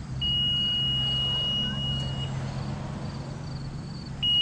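A boom lift's warning beeper sounding one steady high beep of about two seconds, then a short one near the end, while the lift's power unit hums under load as the boom is moved.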